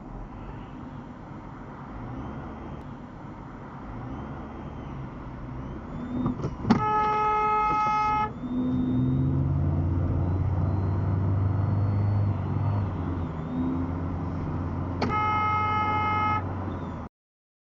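Road noise from a moving car, then a car horn sounds twice, each a steady blast of about a second and a half, about seven seconds in and again about fifteen seconds in. A low steady engine drone runs between the two honks. The sound cuts out abruptly near the end.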